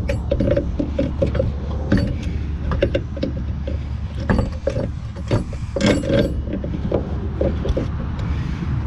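Irregular light metallic knocks and clicks as a new front strut assembly is worked up into position in the wheel well, over a steady low rumble.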